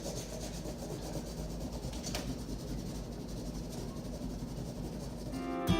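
Faint rubbing and handling noise of hands working on cardboard, with a single click about two seconds in. Acoustic guitar music starts near the end.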